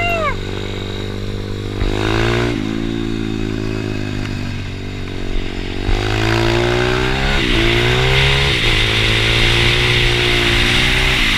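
A pit bike engine running hard. Its pitch climbs steadily and then drops sharply several times, as on gear changes between pulls.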